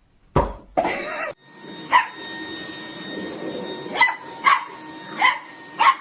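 A dog barking in short, sharp barks, five of them spaced about a second apart, after two loud sudden sounds near the start.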